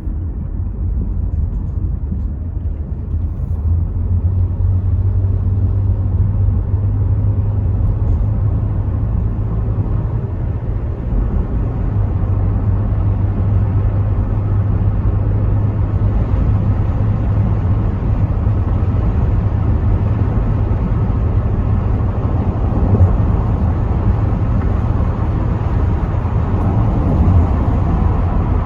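Rover 75 V6 Tourer heard from inside while driving: a steady low rumble of engine and tyres, with road and wind noise through the part-open windows growing gradually louder.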